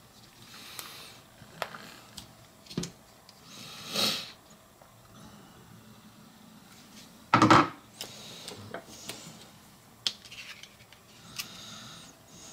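Workbench handling noises while epoxy is mixed: scattered light clicks and short scrapes, with one louder knock about seven and a half seconds in.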